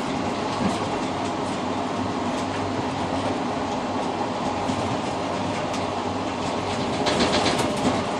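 Moving passenger train heard from inside the rear car's cab vestibule: a steady rumble and rattle with scattered light clicks from the wheels, growing louder and brighter for about a second near the end.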